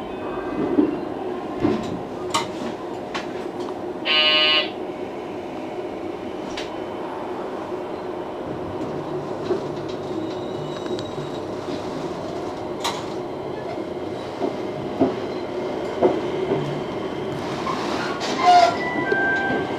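Running noise inside a JR West 227 series electric train as it pulls out of a station and rolls slowly, with occasional sharp clicks from the wheels over rail joints and points. A short horn blast about four seconds in.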